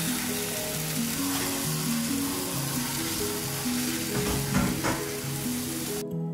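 Food sizzling as it fries in a hot pan, with a few stirring scrapes about four and a half seconds in, over background music. The sizzle cuts off suddenly near the end, leaving only the music.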